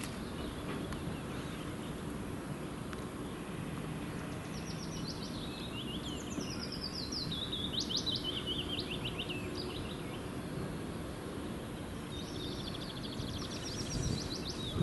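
Songbirds singing: several high trilled phrases that fall in pitch, a run of them from about a third of the way in and another near the end, over a steady low background rumble.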